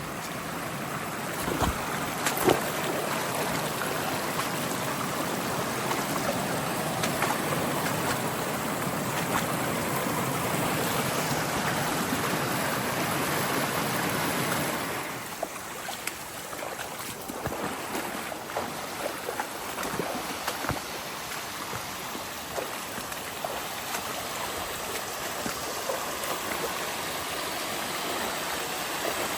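Running water of a creek, a steady rush that drops noticeably about halfway through, followed by a quieter flow with scattered light ticks and crackles.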